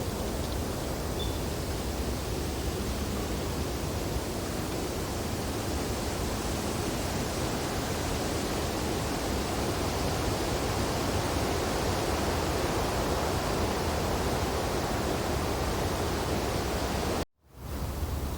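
Wind blowing steadily through tree branches, an even rushing hiss. Near the end it cuts out to silence for a moment and then fades back in.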